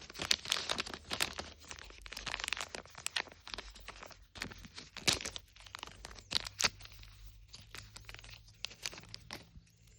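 Small plastic packaging being torn open and crinkled by hand: a dense run of irregular crackles and tears that thins out over the second half.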